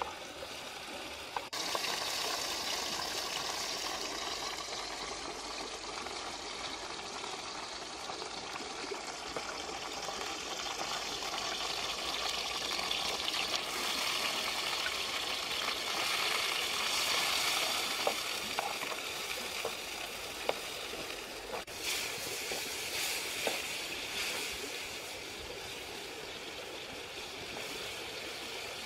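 Chopped red chillies sizzling in hot oil in a blackened wok over a wood fire, a steady hiss with a spatula stirring through it. The sizzle gets louder about a second and a half in and changes again about three quarters of the way through, with a few short clicks before that change.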